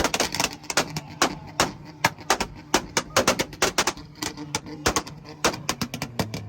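Car exhaust popping and crackling in rapid, irregular bangs, several a second, over a low steady engine note.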